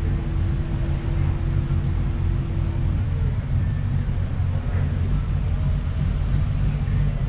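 Low, steady vehicle engine rumble and road noise in slow street traffic. A steady hum stops about three seconds in.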